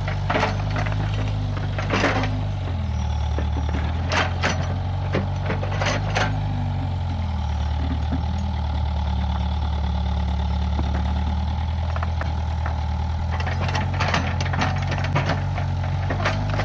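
Diesel engine of a Case 580G backhoe loader running, dropping to lower revs about three seconds in and holding steady. Sharp cracks and knocks come in the first few seconds and again near the end.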